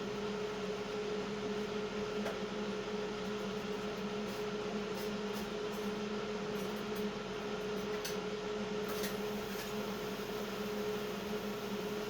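Heater running with a steady hum and fan noise, a few faint clicks over it.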